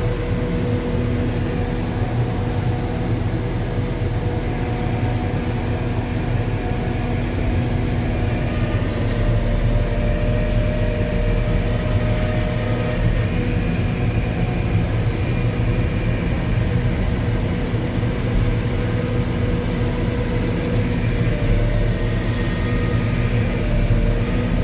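Diesel engine of a Volvo L70H wheel loader and its snow blower running steadily under working load, heard from inside the cab: a continuous low drone with a few faint whining tones that shift slightly in pitch.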